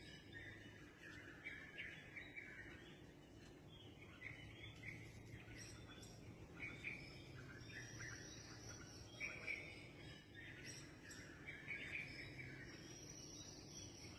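Wild birds chirping and calling faintly in repeated short phrases, with a thin high steady note held for a couple of seconds, about eight seconds in and again near the end.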